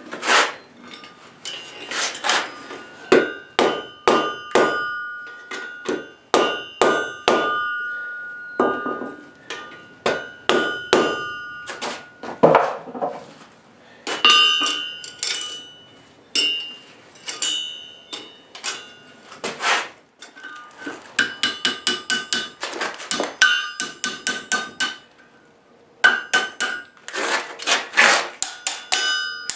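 Blacksmith's hammer forging a steel draw knife blade on an anvil: a long series of hammer blows, each leaving the anvil ringing, with runs of quicker, lighter strikes in the later part.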